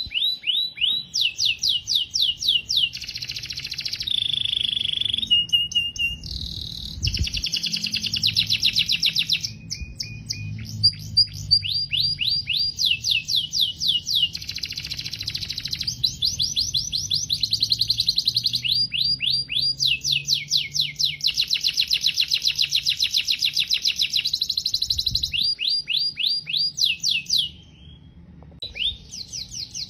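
Domestic canary singing a continuous song of rapid trills, each a fast run of repeated falling notes, switching to a new trill every second or two, with a brief pause near the end.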